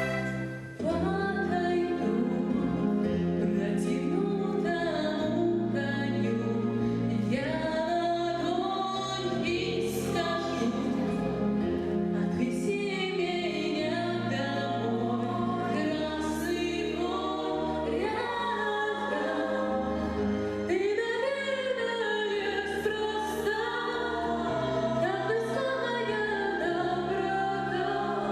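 Music: a children's vocal ensemble singing a song together with instrumental accompaniment, after a short drop in level about a second in.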